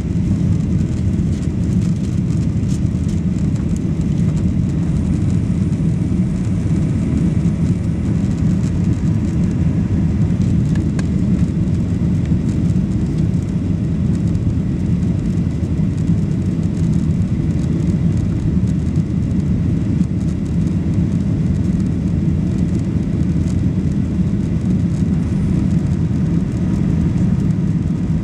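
Steady low rumble and hiss of a Boeing 737-800 jet airliner's engines, holding an even level with no rise or fall.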